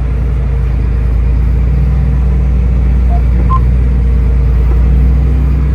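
Large farm tractor's diesel engine running steadily under load, heard from inside the cab as a steady low drone.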